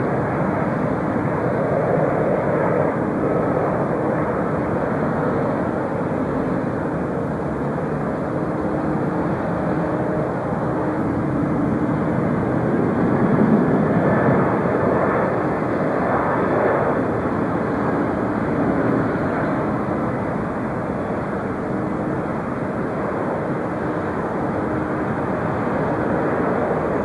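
Jet airliner engine noise, a steady rush with faint steady engine tones, swelling slightly about halfway through.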